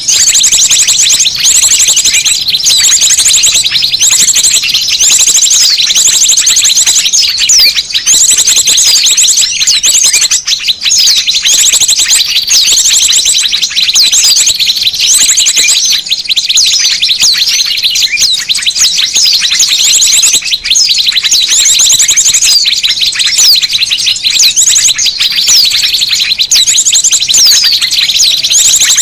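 Noisy, dense chatter of many small birds calling at once: high chirps and rapid trills repeating every second or so without a break. A bird-trapping lure recording (suara pikat) used to call small birds in.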